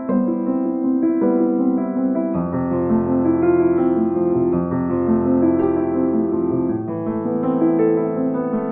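Background piano music, a gentle melody of sustained notes, with lower bass notes joining about two and a half seconds in.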